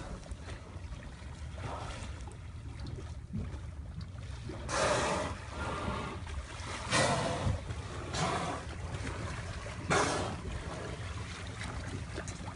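Water and wind noise around a small boat at sea: a steady low rumble, broken four times by short, loud rushes of sound.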